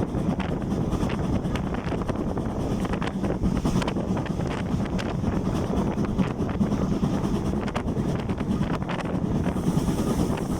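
Train running steadily, a continuous rumble with faint irregular clicks, and wind buffeting the microphone.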